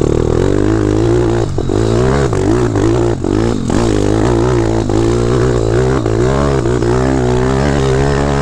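Dirt bike engine running while being ridden, its pitch rising and falling as the throttle is worked, with a few brief dips where the throttle is shut off in the first few seconds.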